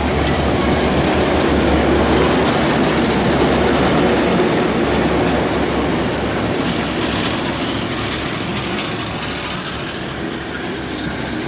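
Passenger train hauled by a DA-class diesel-electric locomotive running, a loud steady rumble of engine and wheels on rail that eases a little in the second half.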